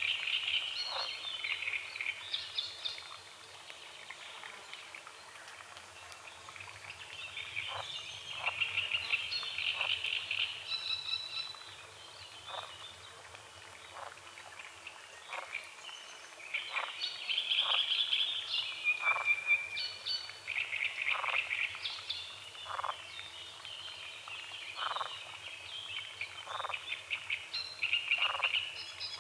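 Songbirds singing a dawn chorus, with busy warbling phrases that come in loud spells, near the start, around a third of the way in, through the middle and near the end. Under them, short single calls repeat roughly once a second.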